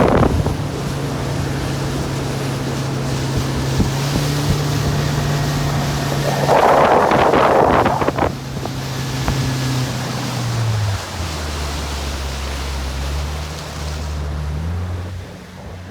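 Boat engine running steadily under wind on the microphone and water noise, with a louder rush of noise about seven seconds in. The engine note drops lower about eleven seconds in as the boat slows.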